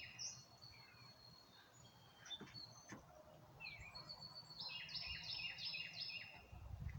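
Faint songbird song: a few thin high whistles early on give way to a quick series of about six repeated slurred whistled notes near the end.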